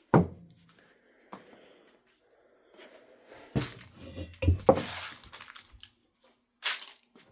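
Knocks, clicks and scraping from hands working on a ceiling fan while taking it apart: a sharp knock at the start, a small click, a cluster of knocks and scraping about halfway through, and a short scrape near the end.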